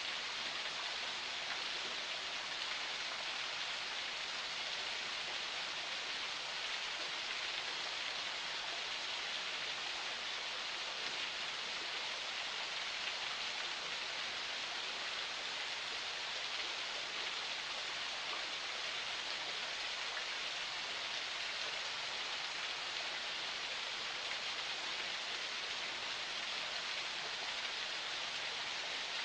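Small spring stream flowing over rocks, a steady even rush of water.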